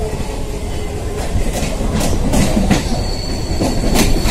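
EMU electric local train running at speed, heard from the coach by an open window: a steady rumble of wheels on rail, with irregular sharp clacks as the wheels cross rail joints and points. A thin high tone joins from about three seconds in.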